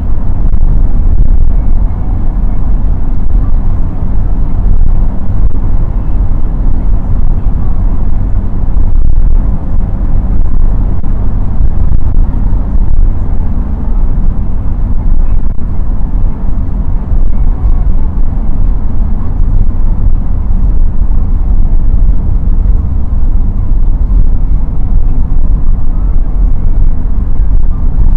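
Cabin sound of a BMW 316i E30 wagon on the move: the four-cylinder engine's drone with tyre and road rumble, steady throughout.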